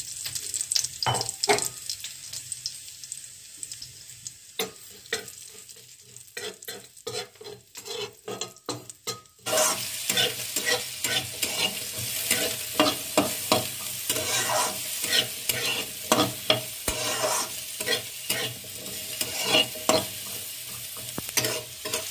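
Cumin seeds sizzling in hot mustard oil in a metal kadai, with scattered clicks and taps. About nine seconds in, a sudden louder, dense sizzle as diced potatoes fry, stirred with a metal spatula that scrapes and knocks against the pan.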